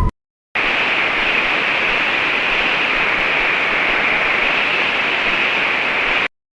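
Wind sound effect: a steady, even, fairly high-pitched hiss that starts abruptly about half a second in and cuts off abruptly near the end.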